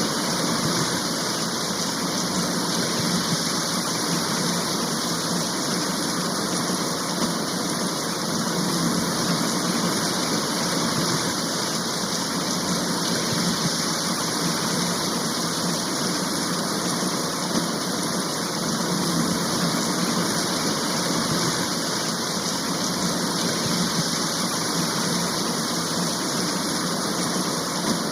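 Steady downpour of a rain shower, an even, unbroken hiss of rain.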